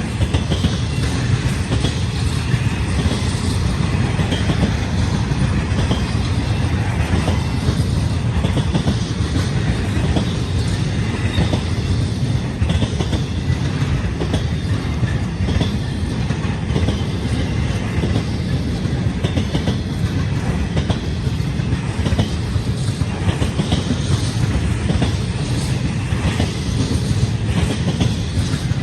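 Freight train of empty single-stack spine cars rolling past, a steady rumble with wheels clicking over the rail joints again and again.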